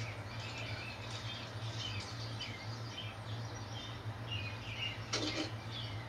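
Wild songbirds chirping and calling from a bird-feeder video on a TV's speakers, many short high chirps over a steady low hum, with one louder call about five seconds in.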